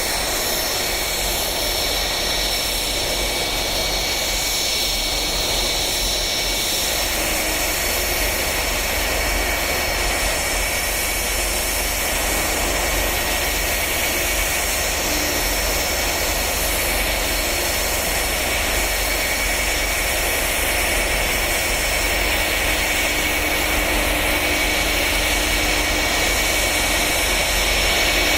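Steady jet whine from a Boeing 757 on the ground, high whistling tones over a constant rush, growing a little louder near the end.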